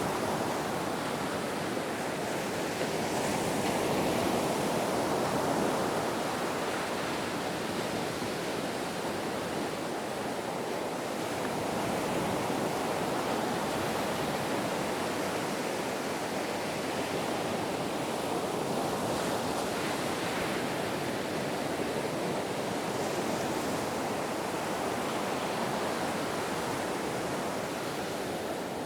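Ocean surf: a continuous wash of breaking waves, swelling and easing slowly without any sharp breaks.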